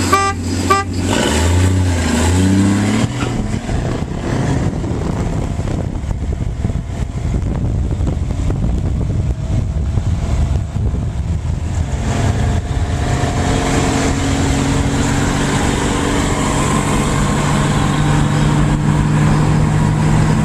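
Short car-horn toots right at the start mark the launch. Then a 1963 Dodge Dart and a 1987 Toyota pickup with a 22R engine rev and accelerate hard in a drag race, and the run settles into a steady engine and road drone.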